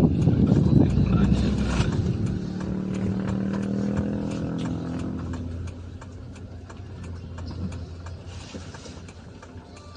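Car engine running as the vehicle drives along. Its pitch eases slowly downward from about two to five seconds in, and it is quieter after that. Small clicks and rattles run throughout.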